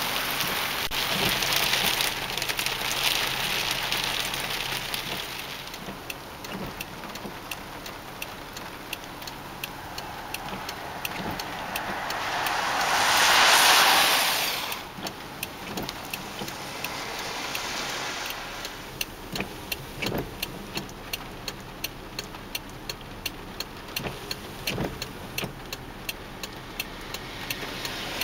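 Rain falling, with many sharp ticks of drops striking a hard surface throughout. A passing vehicle on the wet road swells to the loudest point about 13 seconds in and stops abruptly just after.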